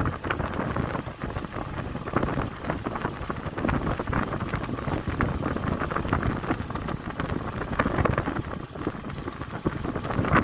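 Wind buffeting the microphone on a moving motorbike, with the bike's engine and road noise underneath as a steady rough rush.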